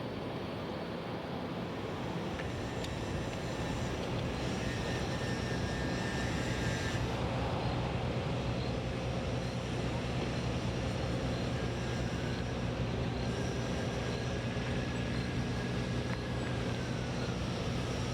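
A steady engine drone over a background rush, its low hum coming up about two seconds in and holding.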